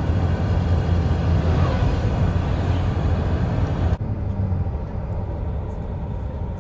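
Heavy truck diesel engine running with a steady low rumble. About four seconds in, the sound turns duller.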